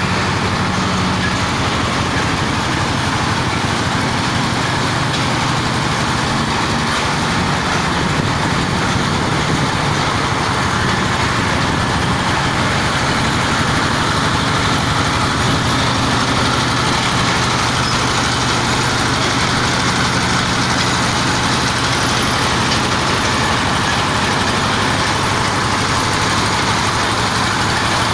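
Electric-motor-driven groundwater well-drilling rig running steadily, a loud, even machine noise with a low hum.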